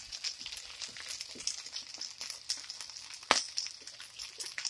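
Egg, bacon and pepper scramble sizzling with a fine crackle in a frying pan on an electric stove, with one sharp click a little over three seconds in.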